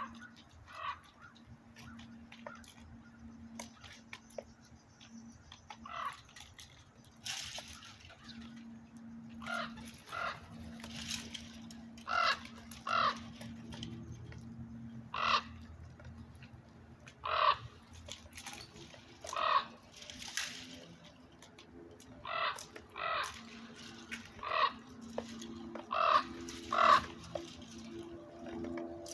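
Birds giving short, harsh calls over and over, often two in quick succession, coming more often after about ten seconds.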